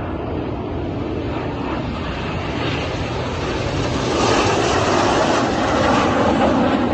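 Jet noise from Red Arrows BAE Systems Hawk T1 jets, with Rolls-Royce Turbomeca Adour turbofans, taking off in formation. It grows louder and brighter about four seconds in as the jets come closer.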